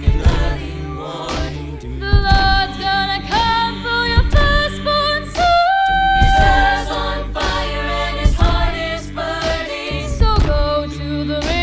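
Contemporary a cappella group singing in close harmony over a deep sung bass line, with beatboxed vocal percussion keeping the beat.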